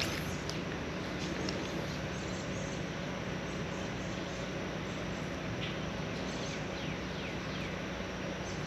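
Steady outdoor background hiss, even and unchanging, with a few faint high chirps of a bird about five to six seconds in.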